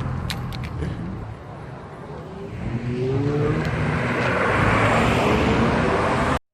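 Car engine accelerating, its pitch rising as it revs, growing louder toward the end before the sound cuts off abruptly. A few sharp clicks in the first second.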